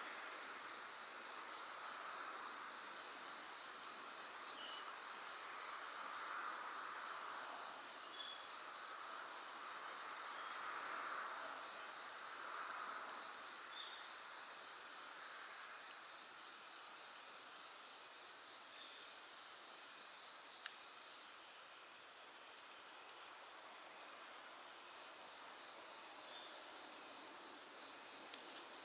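Night chorus of crickets: a steady high-pitched trilling, with a shorter call repeating every two to three seconds. A single pop from the wood fire comes about two-thirds of the way through.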